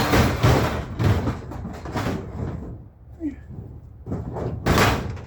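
Scrap metal being handled onto a truck. There are about two seconds of scraping and clattering, a lull, then a sharp bang near the end.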